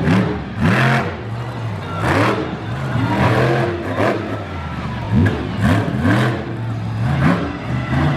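Monster truck engine revving hard in quick repeated bursts, its pitch climbing and dropping about once a second over a steady low running note.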